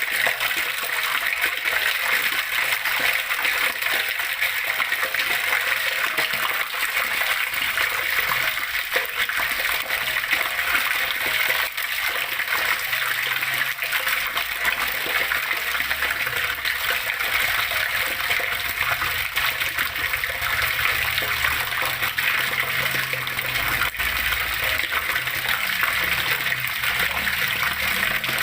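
Flowing water splashing and trickling in a steady, dense rush. A low rumble comes and goes under it in the second half.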